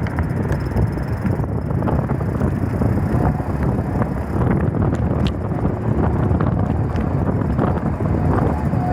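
Steady wind buffeting and rumble on the microphone of a camera carried on a moving bike, with a few faint light ticks.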